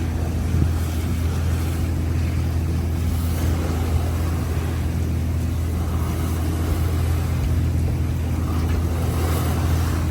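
A trawler's inboard engine droning steadily while underway, under a steady wash of sea and wind noise.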